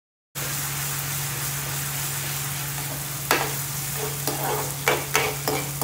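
Onions and green chillies frying in oil in a metal pan: a steady sizzle that starts abruptly just after the beginning. From about three seconds in, a steel ladle knocks and scrapes against the pan several times as chopped tomatoes go in and are stirred.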